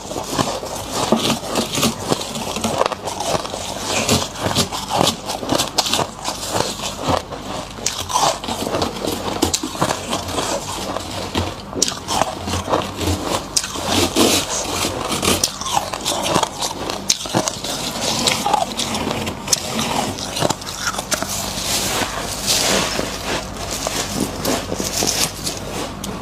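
Frost being dug out by hand and bitten: continuous scraping and crunching of powdery ice, dense with small crackles.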